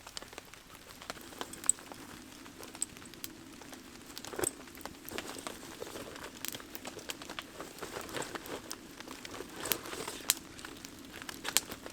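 Wood campfire crackling with irregular sharp pops, over a low steady sound of a pot of water heating over it, close to the boil.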